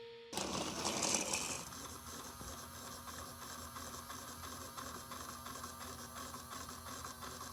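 Steady, fast mechanical clatter that starts suddenly and is louder for about its first second, then settles.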